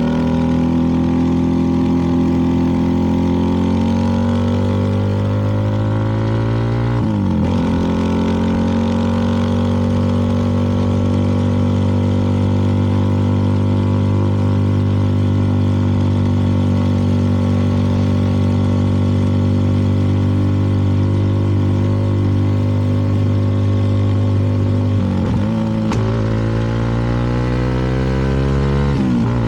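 CFMoto 300NK's single-cylinder engine running under way, its note drifting slowly in pitch, with brief breaks about seven seconds in and again near the end as gears are changed.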